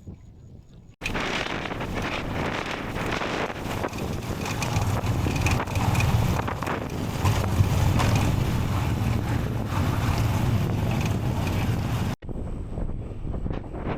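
Wind buffeting the microphone over a low rumble. It starts abruptly about a second in and cuts off abruptly near the end.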